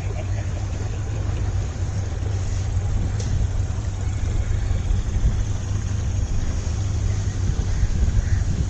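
Boat engine running steadily under way: a constant low hum beneath a rushing noise.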